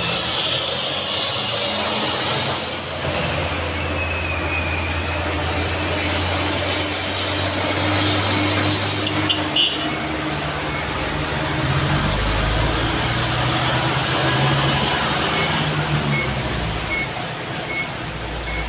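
Hino truck's diesel engine running steadily, with a low drone whose note drops lower about twelve seconds in. A thin high whine swells and fades several times over it.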